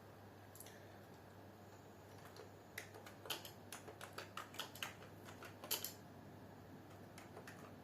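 Typing on a computer keyboard: a run of irregular keystrokes from about two to six seconds in, then a few more near the end, as a question is entered for the Racter program.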